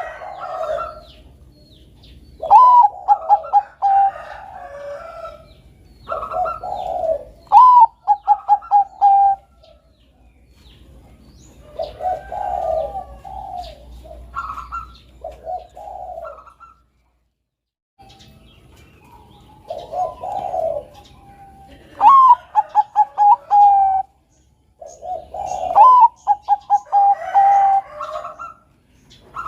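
Zebra doves (perkutut of the Bangkok song line) cooing: repeated phrases of quick staccato notes running into a held coo, several times over. Faint high chirps of small birds sound between the phrases.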